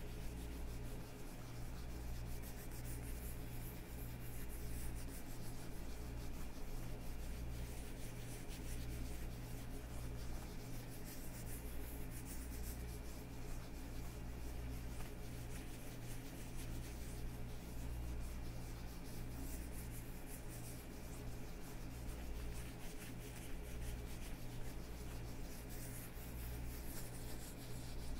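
Hands in leather gloves rubbing against each other: a continuous fine rustling and crackling of leather, with swells of louder rubbing every several seconds.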